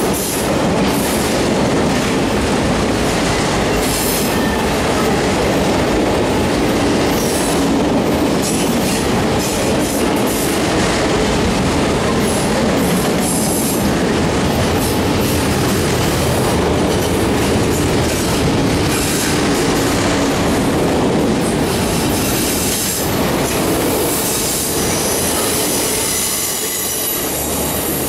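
Auto rack freight cars rolling past close by: the steady noise of steel wheels on rail, with occasional clacks over rail joints.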